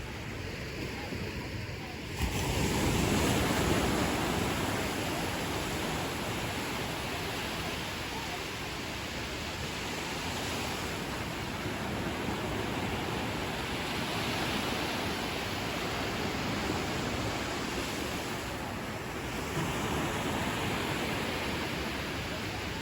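Ocean surf at a beach, a steady wash of breaking waves. A wave breaks about two seconds in and its wash slowly fades, and a smaller swell comes near the end.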